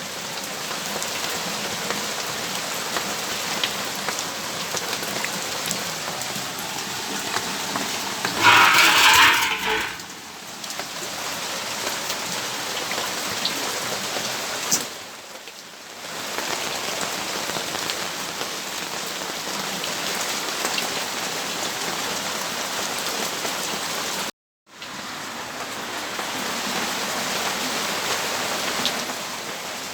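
Steady rainfall, an even hiss of rain. About nine seconds in there is a brief louder rush, and later the sound cuts out for an instant.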